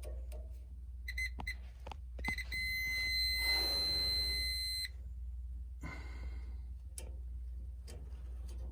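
Digital multimeter's continuity beeper: a few short chirps about a second in as the probes touch, then a steady high beep of about two and a half seconds as they hold contact across the dryer's igniter. The beep shows the igniter has continuity and is good.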